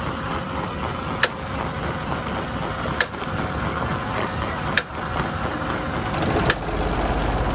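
A machine engine running steadily, with a sharp knock about every second and a half to two seconds.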